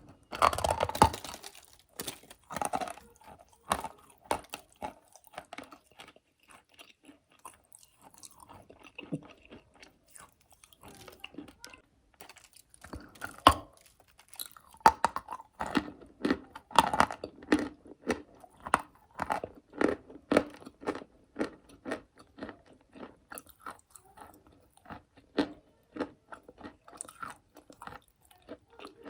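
Close-up crunching and chewing of dry clay chalk: a loud bite right at the start, then crackling chews that thin out for several seconds before growing dense and loud again in the second half.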